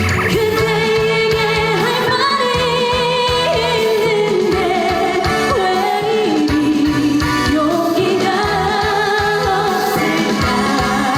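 A woman singing a Korean trot song over a backing track, holding long notes with vibrato.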